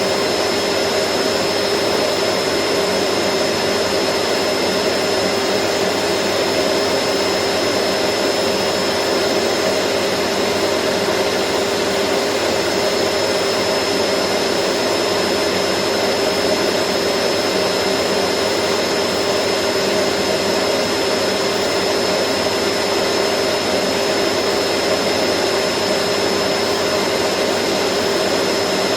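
Vacuum cleaner running steadily: an even rushing of air with a constant motor hum and a thin high whine, no change in speed.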